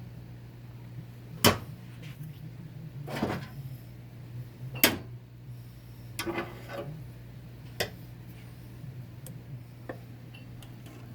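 Metal transmission parts being handled during a 4L60-E teardown: two sharp clanks with some scraping and a lighter click in between, over a steady low hum.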